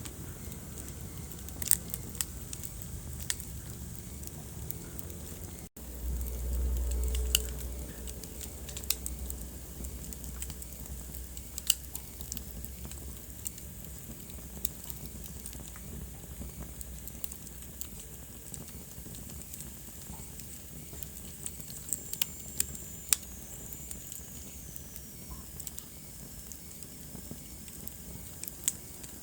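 Wood fire crackling, with scattered sharp pops over a low steady rumble of the flames. The sound breaks off for an instant about six seconds in, and then the low rumble swells for a couple of seconds. A faint high whistle falls in pitch near the end.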